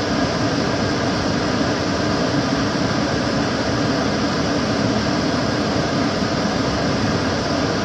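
Kitchen cooker hood extractor fan running steadily: a constant rushing of air with a low hum.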